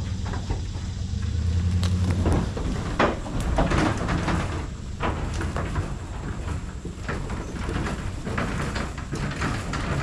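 Knocks, bangs and rattles from a livestock trailer with pigs just loaded into it. A low vehicle hum runs under the first two seconds.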